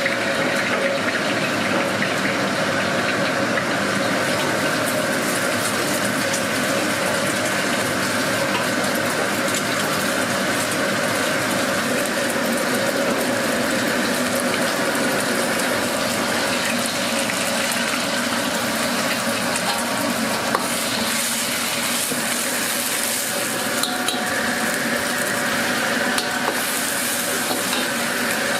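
Fried rice sizzling on a hot pan, stirred and scraped with a metal utensil, with many small clinks and scrapes over a steady frying hiss.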